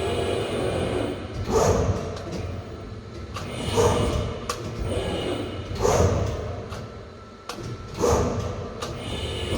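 Safan SMK40-2050 servo-electric CNC press brake cycling, with a loud stroke about every two seconds, four times, over a steady motor hum.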